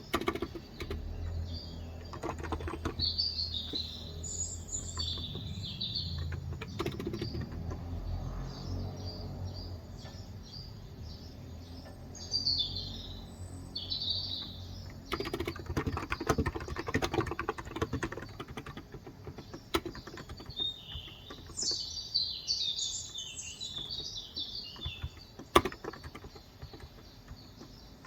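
Typing in bursts on a Cox Endeavor electrostatic capacitive keyboard with light 35g switches, under birds chirping in several bouts. A low rumble sits under the first third, and one sharp click near the end stands out as the loudest sound.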